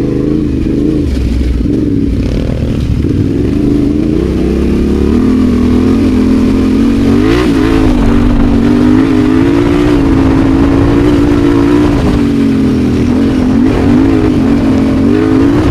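Adventure motorcycle engine running while riding, its pitch wavering up and down with the throttle.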